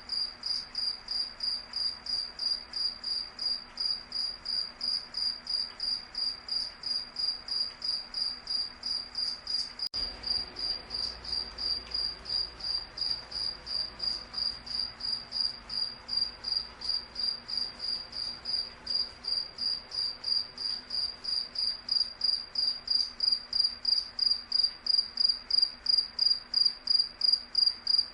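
A cricket chirping steadily: evenly spaced high-pitched chirps, about two to three a second, growing louder in the last few seconds.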